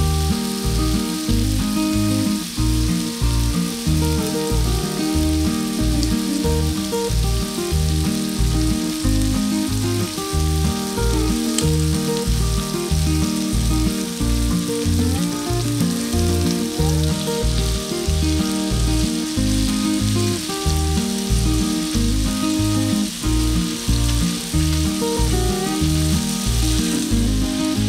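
Food sizzling as it fries in hot oil, heard over background music with a steady beat.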